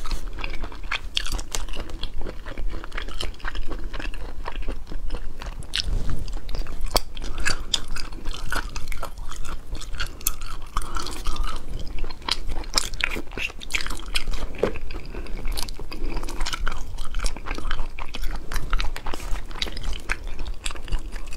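Close-miked chewing and biting of spicy braised seafood, a dense run of irregular sharp crunches and clicks with no pause.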